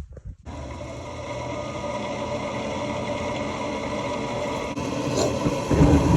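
Furnace blower motor and fan, its bearings freshly rebuilt, switching on about half a second in and running up to a steady hum; near the end it gets louder and deeper.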